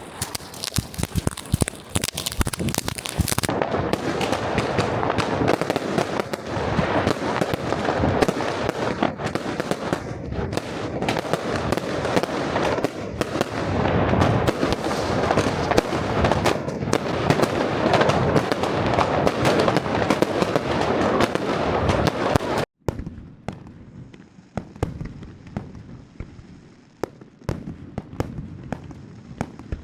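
Fireworks and firecrackers going off in a dense, continuous barrage of bangs and crackling. About three-quarters of the way through it cuts off abruptly and carries on as quieter, sparser bangs.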